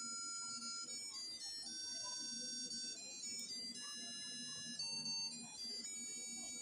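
A simple electronic chime melody of plain, held beeping tones changing note about every half second, like a cheap melody chip, over a faint low hum.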